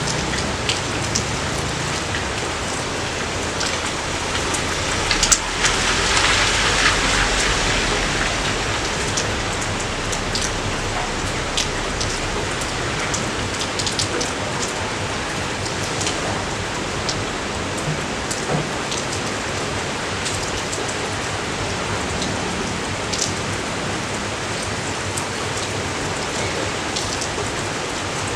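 Steady rain falling, with individual drops ticking close by. About five seconds in it swells louder for a few seconds, with a low rumble underneath, then settles back.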